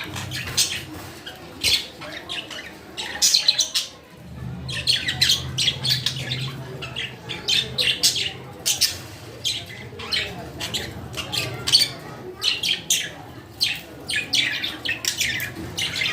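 Pet budgerigars chirping and squawking, many short rapid calls overlapping throughout.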